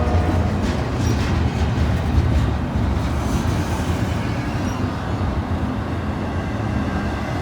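Freight train rolling past slowly: a steady low rumble with wheel and car noise. It is going slow because of a train ahead that is having problems.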